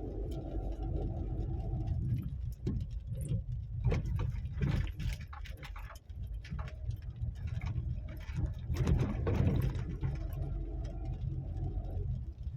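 A vehicle engine running, its steady hum plain at the start and again near the end, over a constant low rumble, with irregular knocks and clatter in between.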